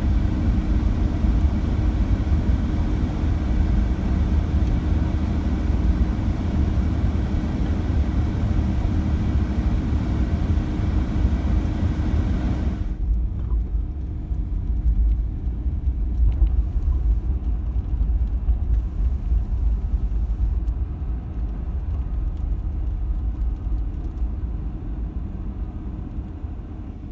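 Car driving: a steady low road and engine rumble, with a hiss over it that cuts off suddenly about halfway through, leaving only the rumble.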